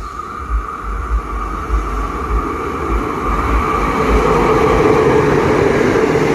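Passenger train with a diesel locomotive approaching and running through the station at speed: a rising rumble of engine and wheels on rail that swells about four seconds in, with wind buffeting the microphone.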